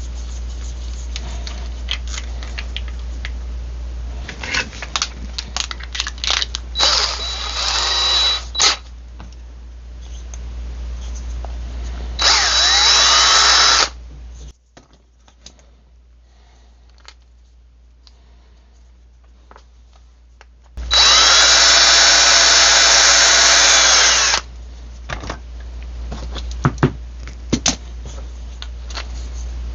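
Electric drill running in three bursts: a short run about a quarter of the way in, another just under two seconds long near the middle that rises in pitch as it spins up, and a longer run of about four seconds later on. Clicks and knocks of handling come between the runs.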